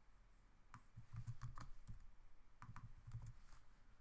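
Faint, irregular clicks and taps of computer keyboard and mouse use, bunched into two short clusters.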